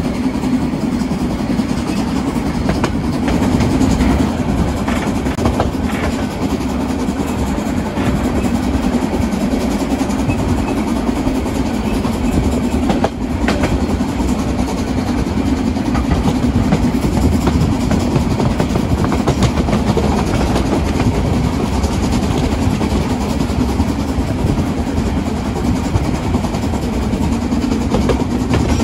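Narrow-gauge train running steadily on the rails: a continuous rumble with scattered clicks and clatter from the wheels.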